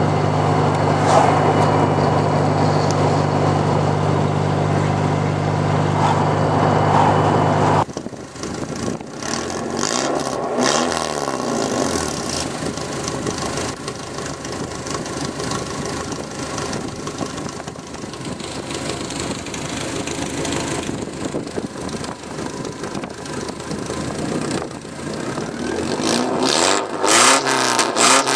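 Straight-piped 1983 Porsche 944's 2.5-litre four-cylinder engine, with no catalytic converter or muffler. For about eight seconds it runs at one steady note, then cuts abruptly to a quieter sound whose pitch sweeps down and back up as it revs and accelerates, louder again near the end.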